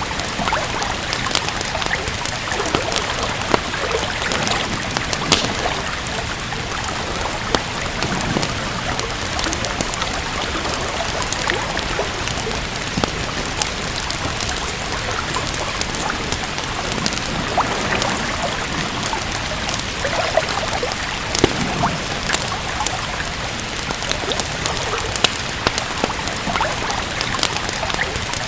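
Steady rain with scattered sharp crackles from a fireplace fire.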